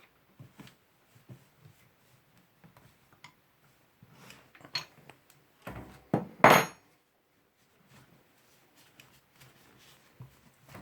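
Clattering of hard objects being handled: scattered light clicks and knocks, with a louder clunk and short rattle about six seconds in.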